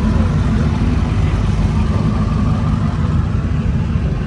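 A truck engine idling, a steady low rumble.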